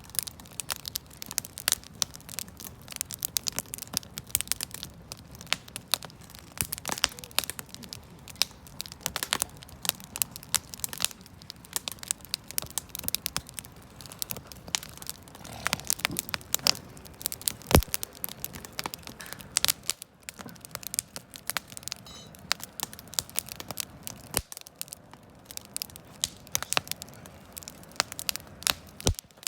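Wood fire crackling and popping: a dense, irregular run of snaps, with one sharp, louder pop about halfway through.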